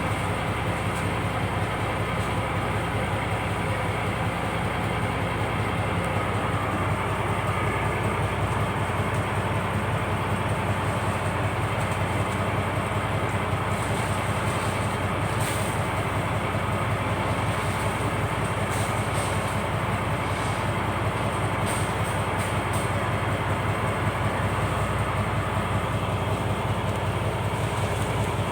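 Steady low running of a purse seine fishing boat's engine, a fast, even rhythm that does not change.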